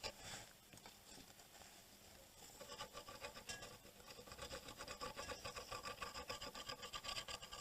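Faint rapid scraping and rubbing of a tool worked back and forth over a circuit board while its copper tracks are re-tinned with solder, starting about two and a half seconds in.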